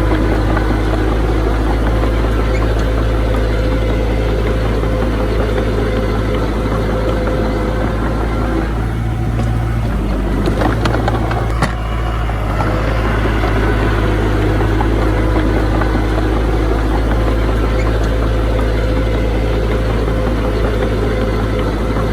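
Heavy diesel engine of earthmoving machinery running steadily with a deep drone, with a brief change in tone and a few sharp knocks about halfway through.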